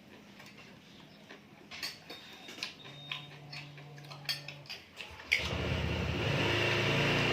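Scattered small clicks and knocks, then about five seconds in a motor starts with a sudden jump in level and keeps running loudly and steadily with a low hum.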